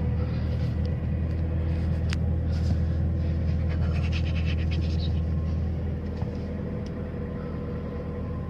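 A car engine running steadily after a cold start in deep frost, a deep even rumble with some faint quick ticking around the middle.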